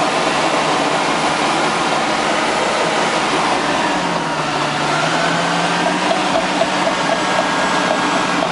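Caterpillar D6N LGP crawler bulldozer working, its diesel engine running steadily with the pitch dipping about four seconds in and coming back up. In the second half there is a quick, regular clatter of the steel tracks.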